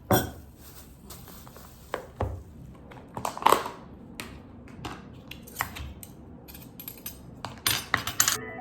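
Small objects being handled, making a series of irregular clicks, clinks and knocks, with a brief swish about three and a half seconds in and a quick run of clicks near the end.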